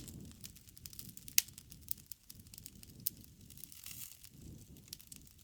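Bonfire crackling: irregular sharp pops and snaps of burning wood over a soft, low rumble of flame, with a few louder pops about one and a half and three seconds in.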